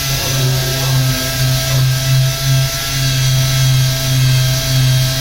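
Power sander running steadily, taking old paint off a car body: a steady whine over a strong low hum that swells and dips every half second or so.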